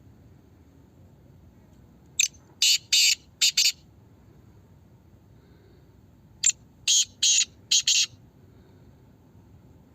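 Black francolin calling: two harsh, rhythmic phrases of about five clipped notes each, a few seconds apart.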